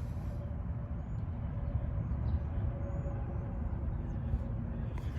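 Steady low outdoor background rumble, with a faint steady hum above it.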